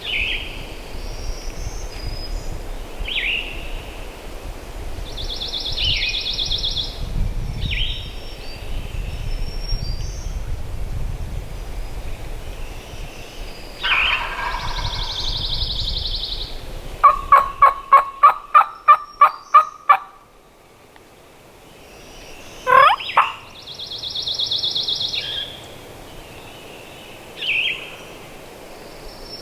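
A series of about ten turkey yelps, roughly three a second, loud and evenly spaced, over songbirds chirping and trilling; wind rumbles low until the yelping starts.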